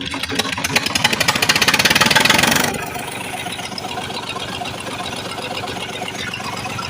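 Lister-type diesel engine speeding up, its beat getting faster and louder. About two and a half seconds in it suddenly drops back and settles into a steady, even run.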